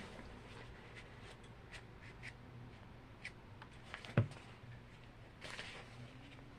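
Faint rustling of thin paper and small clicks as Bible pages are leafed through to find a passage. One sharper tap or knock sounds about four seconds in, over a low steady hum.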